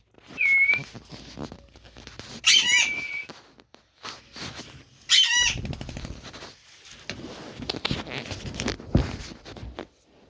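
Pet parrot calling: a short whistle, then two sharp squawks that fall in pitch, a few seconds apart, followed by rustling and scuffling.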